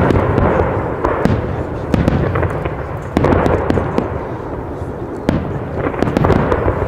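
Fireworks going off: a rapid run of sharp bangs and crackling over a continuous rumble, with louder bangs right at the start and again about one, two and three seconds in.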